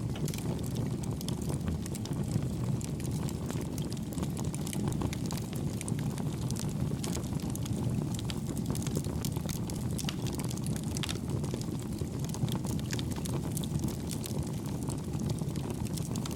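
Campfire burning with a steady low rumble and frequent small, soft crackles and pops, the crackling kept gentle.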